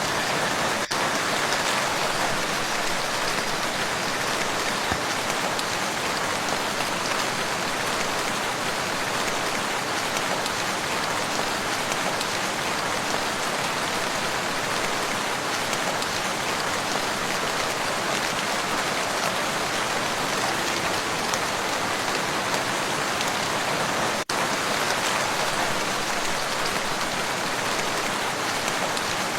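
Steady, even rain falling on a lake's surface, a dense patter of drops with no rhythm, dropping out for an instant twice.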